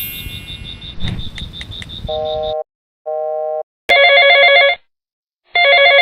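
Electronic telephone ring tones: a high fast trill, then two short steady beeps, then two loud warbling rings, each just under a second long.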